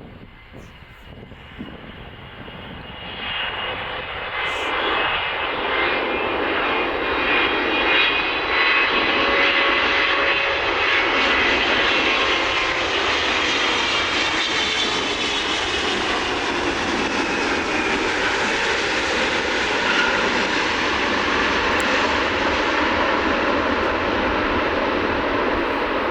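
Jet airliner's engines passing close by. The roar swells over the first few seconds, then holds loud and steady, with a whine that slowly falls in pitch as the plane goes past.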